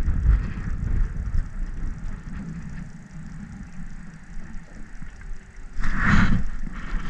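Wind buffeting the microphone, a gusting low rumble that is strongest in the first two seconds, with a short rushing burst about six seconds in.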